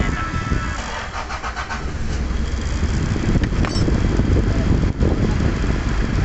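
A vehicle's engine being started: the starter cranks for about a second, the engine catches about two seconds in, and it runs on at a steady idle.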